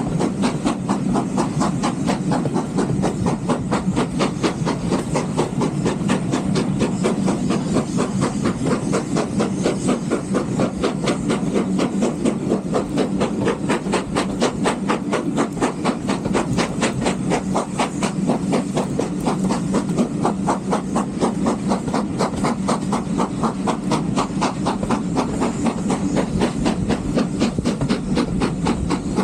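Steam locomotive working a train at speed, its exhaust beating in a fast, even rhythm of about four to five chuffs a second over a steady hiss and the running of the carriages.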